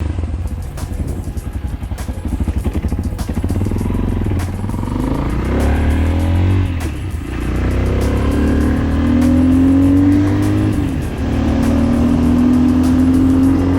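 Fuego Tekken 250 enduro motorcycle's 250 cc single-cylinder engine running, uneven at first, then revs climbing steadily; the pitch drops briefly about eleven seconds in and climbs again.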